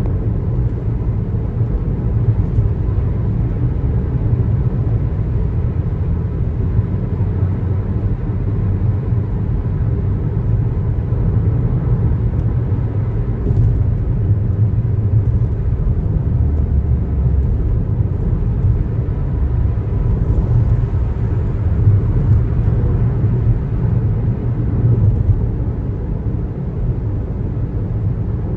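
Steady low road rumble of a car driving along a highway: tyre and engine noise.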